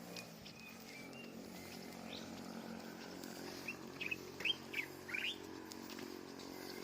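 A bird chirping: a quick run of short rising chirps a little past the middle, over a steady low hum.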